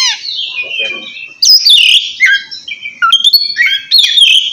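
Oriental magpie-robin (kacer) singing loudly in its 'ngeplong' style: a continuous run of varied, clear whistled phrases with quick falling sweeps and sharp chirps.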